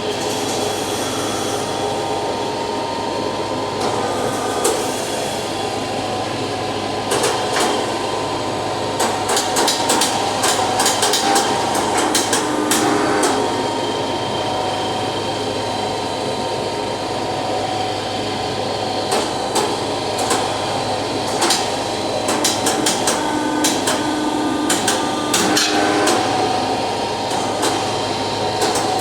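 Hammer blows ringing on steel in irregular runs of quick strikes, driving a punch through a hot axe head to make the eye, over the steady rush of a gas forge.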